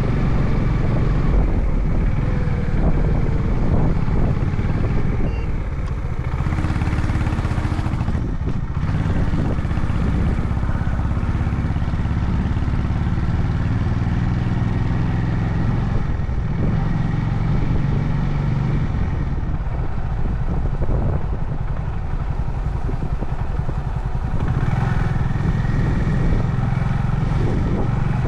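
Honda CB350 Highness single-cylinder motorcycle engine running under way on the road, its note shifting a few times with the throttle.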